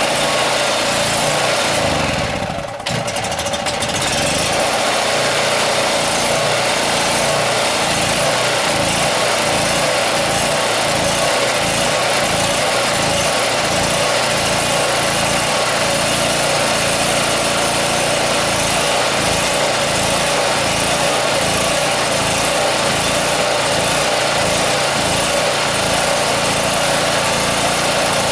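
Portable gas generator's small engine running steadily, just caught on a cold start after a hard start; it stumbles briefly about three seconds in, then runs on evenly.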